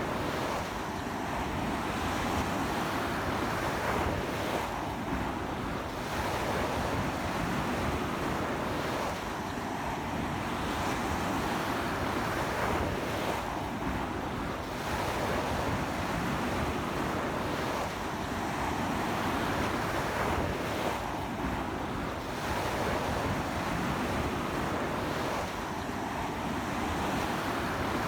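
Ocean surf breaking and washing up a beach in strong wind, a steady roar that swells and eases every few seconds as the waves come in.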